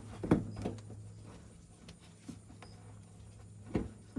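A few scattered clicks and knocks of hand tools and fasteners being handled, the sharpest about a third of a second in and another near the end, over a low steady hum.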